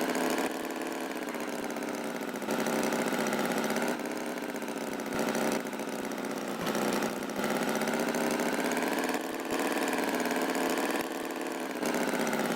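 Cartoon tractor engine sound effect: a thin, buzzing engine running at idle, stepping louder and softer every second or two.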